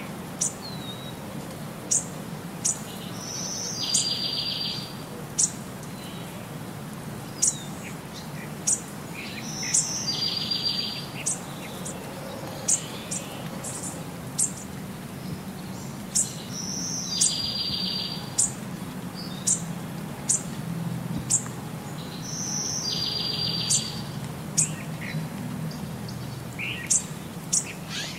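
Birdsong: short high chirps about once a second, with a buzzy trill that comes back about every six and a half seconds in the same shape, over a low steady hum.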